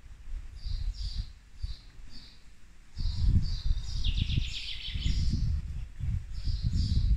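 Small birds singing in short repeated chirps, with a quick trill about four seconds in. Louder low, gusty rumbling of wind on the microphone from about three seconds in.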